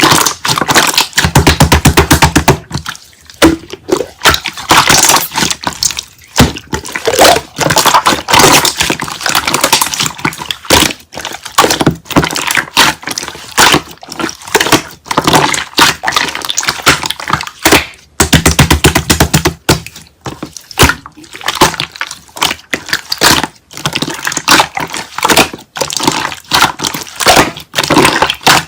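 Slime being squished, poked and folded by hand, a constant run of wet clicks, pops and crackles. It breaks twice into a quick, even train of rapid clicks.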